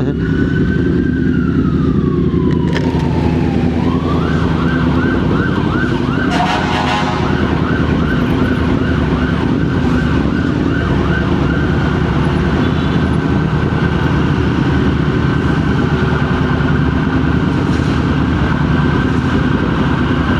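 An emergency-vehicle siren sounding in traffic: a slow falling wail in the first few seconds, then a fast repeating yelp that continues. Under it, a motorcycle engine runs steadily.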